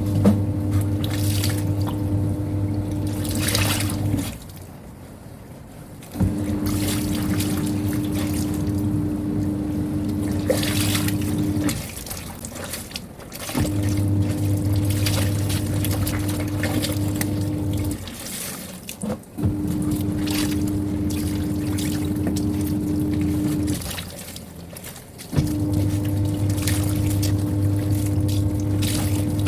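Semi-automatic washing machine's wash-tub motor churning clothes in rinse water with a steady hum and sloshing. It runs in stretches of about four to six seconds with short pauses of a second or two between them, the stop-start rhythm of the wash cycle.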